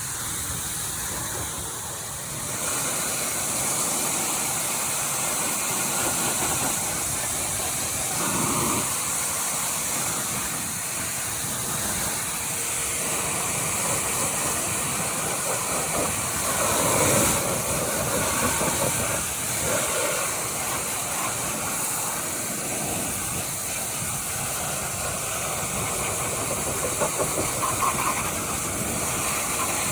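Electric pressure washer running, its high-pressure water jet hissing steadily as it sprays a muddy dirt bike. The spray sound swells and changes briefly a few times as the jet moves over different parts.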